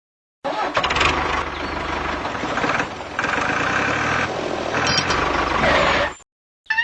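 A vehicle engine running steadily. It starts about half a second in, shifts in tone partway through, and cuts off abruptly near the end.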